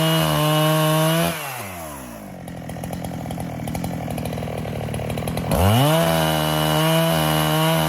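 Neotec NH895 two-stroke chainsaw (a Husqvarna 395 clone) running at high revs. The throttle is released about a second in and the engine falls to a lower, uneven idle. About five and a half seconds in it revs sharply back up and holds a steady high note.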